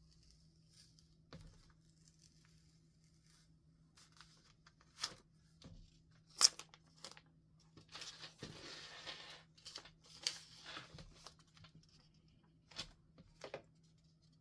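A sticker being peeled off a paper journal page: a second or so of papery tearing and rustling in the middle, among scattered light clicks and taps of paper handling, one sharper click a little past the middle.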